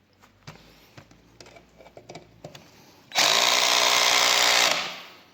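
Parkside PABS 20 Li G8 cordless drill driving a drywall screw on clutch setting 7. It follows faint handling clicks, runs for about a second and a half, then winds down.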